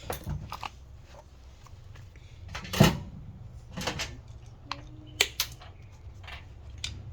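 Scattered knocks and clatters of hard objects being handled, the loudest about three seconds in, over a steady low hum.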